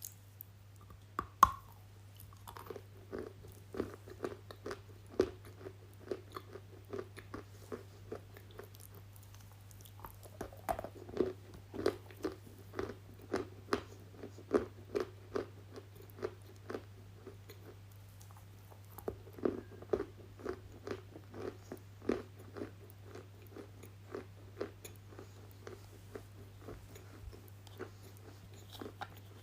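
A person biting and chewing something crunchy, with many sharp crunches several a second and short pauses between runs of bites.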